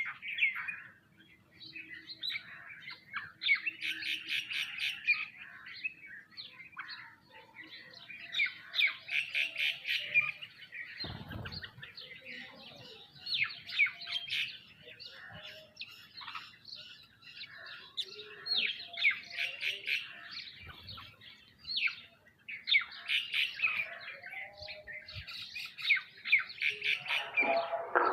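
A group of sparrows and mynas chirping, in busy bursts of rapid chirps with short pauses between.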